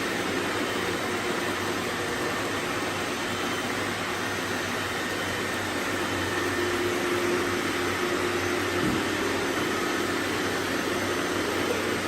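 Many robot vacuums running at once: a steady hum of suction motors and brushes. A faint steady tone comes in about halfway, and there is one brief knock about three-quarters of the way through.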